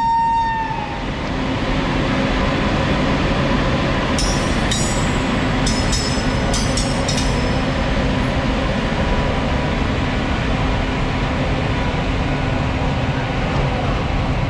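Indian Railways freight train running past with a steady rumble. A locomotive horn note cuts off just under a second in, and a run of short high squeals comes between about four and seven seconds in.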